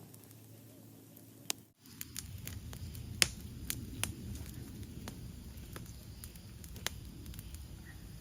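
Cooking fire crackling, with irregular sharp pops over a low rumble. It starts after a brief cut about two seconds in.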